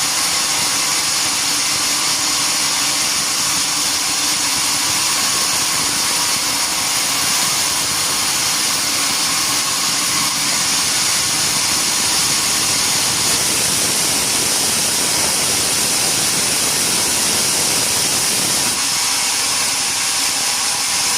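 Sawmill machinery running steadily: an engine-driven saw with a loud high hiss. Its tone shifts slightly about two-thirds of the way through, and again near the end.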